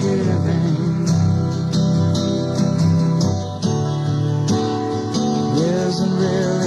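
Live folk-rock band music: strummed acoustic guitars over a moving bass line, in an instrumental passage.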